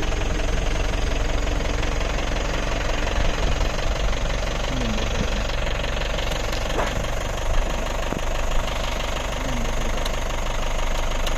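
Safari jeep's engine running steadily at low speed, with a few faint clicks.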